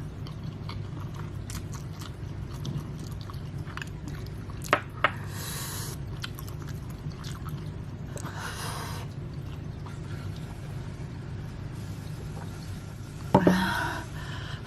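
Close-up eating of spicy instant noodles: chewing, with two sharp clicks about five seconds in and short breathy puffs twice in the middle. Near the end comes a sudden loud click and a hissing breath, the eater reacting to the burning heat of the noodles.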